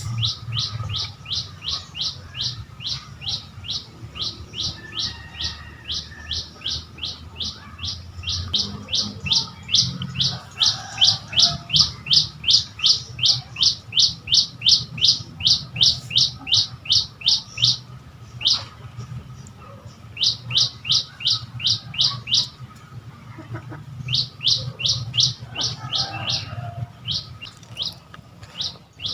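A bird calling a long, fast series of short high-pitched notes, about three to four a second, broken by a few brief pauses, over a steady low hum.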